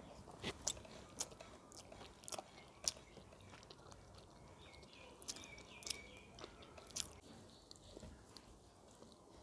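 A person chewing and biting food close to the microphone, with scattered sharp, crisp clicks and crunches.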